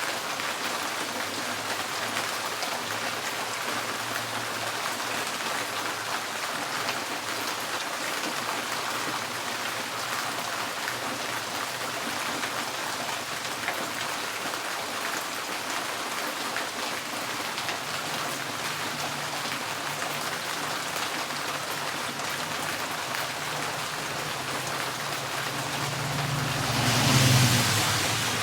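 Steady rain drumming on a tin porch roof. Near the end a vehicle passes, a low hum that swells and fades over a couple of seconds.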